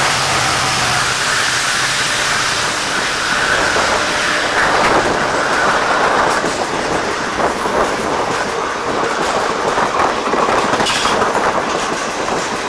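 An express train passing close alongside, heard from the doorway of another train. In the first second its WDP4D diesel locomotive goes by with a low engine hum. Then its passenger coaches rush past in a steady roar, with the wheels clattering over rail joints.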